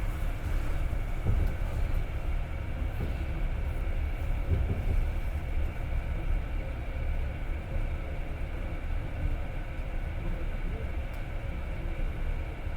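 Moving passenger train heard from inside the carriage: a steady low rumble of wheels running on the rails, with a faint steady hum above it.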